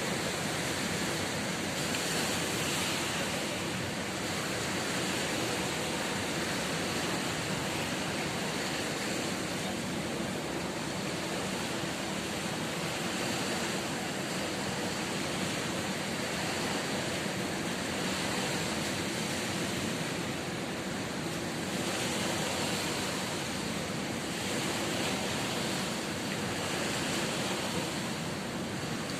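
Ocean surf: a steady rush of waves breaking on the shore, swelling slightly every several seconds.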